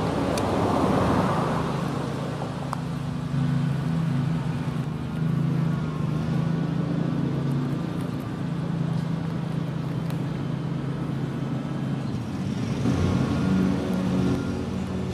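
A motor vehicle engine running steadily with a low hum that shifts in pitch near the end.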